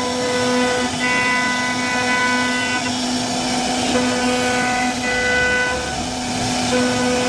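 CNC router spindle running with a steady whine, with higher tones coming and going in stretches of about two seconds as the bit cuts into wood.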